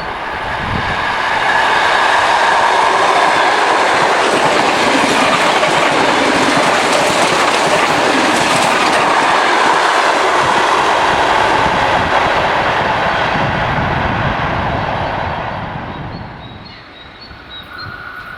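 Suburban electric multiple unit train passing by: the rumble of its cars on the rails builds about a second in, holds loud and steady, then fades away after about fifteen seconds.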